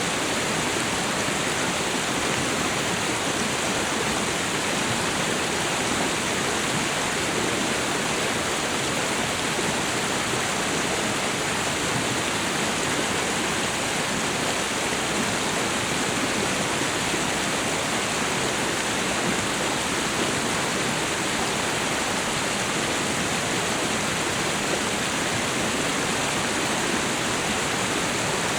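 Waterfall and river water rushing: a steady, dense hiss of falling and flowing water.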